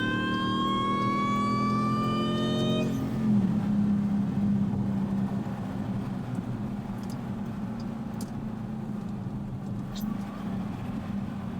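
Supercharged Jeep SRT accelerating: the supercharger's high whine rises steadily in pitch for about three seconds, then stops suddenly, leaving the engine running with a steady low drone.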